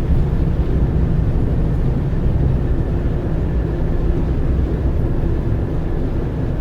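Marine diesel engines of a 60-foot motor yacht running with a steady low rumble, the starboard engine in reverse while the boat is manoeuvred slowly in to dock.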